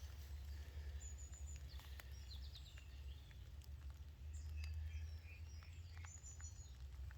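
Faint birdsong of small birds: short high chirps and trills coming every second or two, over a steady low rumble, with a few light ticks.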